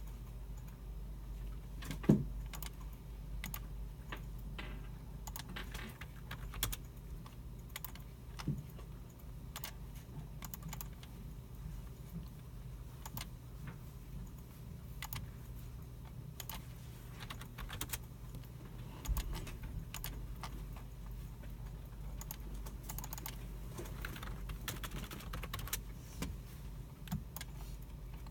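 Computer keyboards being typed on, with mouse clicks, in a library computer room: scattered, irregular key clicks over a steady low hum. There is a louder single knock about two seconds in.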